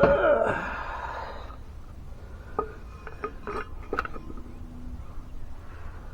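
Metal parts being handled: a rattling, scraping clatter for about the first second and a half, then a few separate clinks and clicks.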